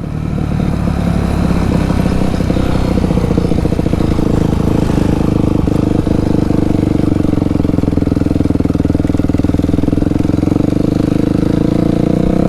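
Dirt bike engine (a 280) running loudly at a steady throttle, its pitch holding nearly level.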